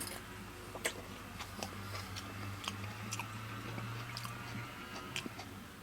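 A person chewing a mouthful of fresh Violet Jasper tomato, close up: a string of small, soft mouth clicks. The tomato's flesh is very dry.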